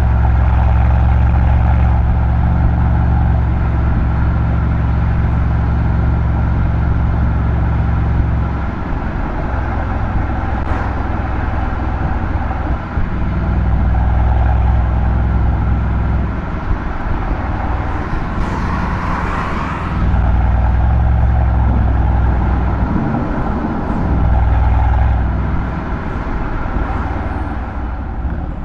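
Mercedes-AMG C63's M177 twin-turbo V8 exhaust droning while driving at a steady pace, its low note rising and falling in loudness several times as the throttle changes.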